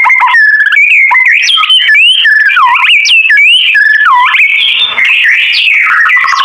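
White-rumped shama (murai batu) singing: a run of loud, clear whistled phrases that slide up and down in pitch, turning to denser, rapid chattering about five seconds in.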